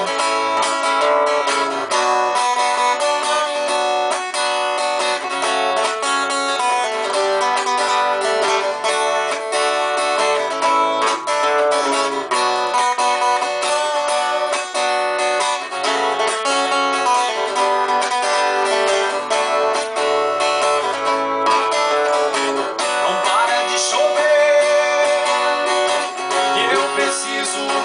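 Acoustic guitar playing an instrumental break in a sertanejo song, a run of plucked and strummed notes with no singing.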